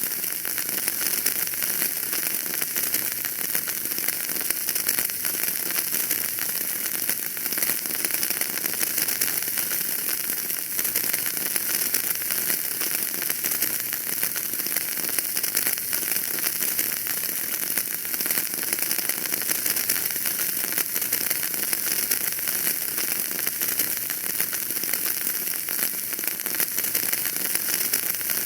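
Wood fire burning in a fireplace: a steady dense crackle and hiss with many small pops.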